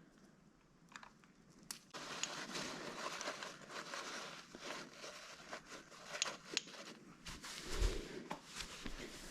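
Crinkling, scraping and tearing with many small clicks, starting about two seconds in: hands working a part off the KTM 85's two-stroke top end.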